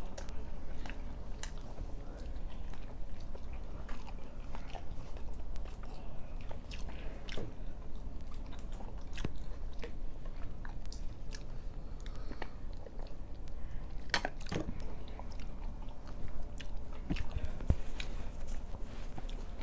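Close-up chewing and biting of egg-coated paratha flatbread, with many small wet mouth clicks and smacks scattered through; a sharper click about fourteen seconds in.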